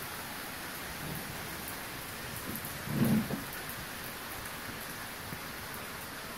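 Steady rain falling, with a brief, louder low thud about three seconds in.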